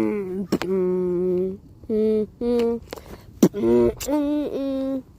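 Vocal beatbox: one voice hums held melody notes, some bending in pitch, while making a few sharp mouth-made percussion hits between them.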